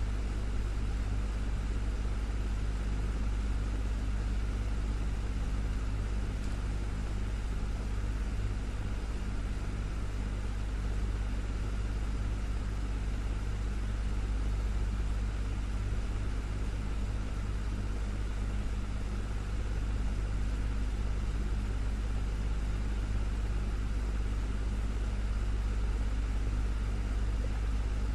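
Desktop fan running steadily: a constant low motor hum under an even whoosh of moving air.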